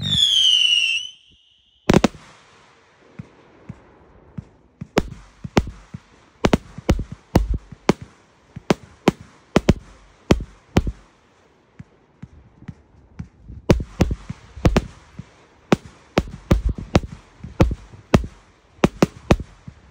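Multi-shot consumer fireworks cake firing. A high whistle falls in pitch at the start, a loud bang comes about two seconds in, then a quick irregular string of sharp bangs from bursting aerial shells, several a second, with a short lull about twelve seconds in.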